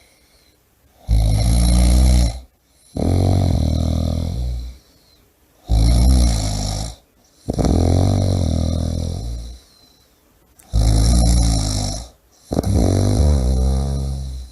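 A person snoring loudly and regularly, three breaths in all, about every four and a half seconds. Each breath has two parts: a short rasping snore, then a longer one that falls in pitch, with a quiet pause between breaths.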